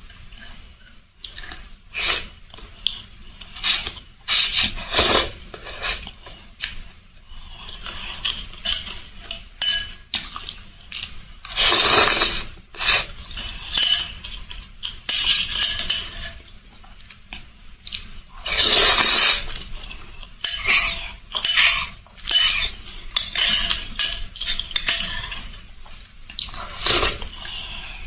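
Spoon and fork clinking against a bowl of noodle soup while eating, with mouth and slurping noises. The loudest are two longer rushes about twelve and nineteen seconds in.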